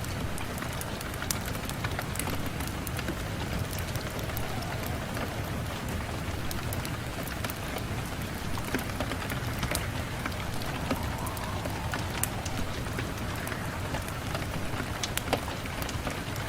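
Steady rain falling on a window, an even hiss with many scattered sharp ticks of drops striking the glass.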